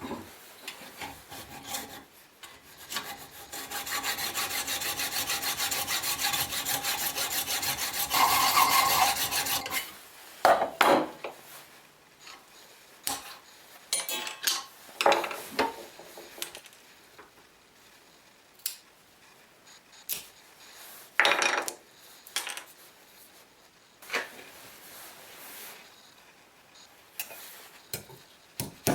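Metal skimmer being worked with an abrasive tool: a steady rubbing, grinding sound lasting about seven seconds, loudest just before it stops, followed by scattered clinks and knocks as the pieces are handled.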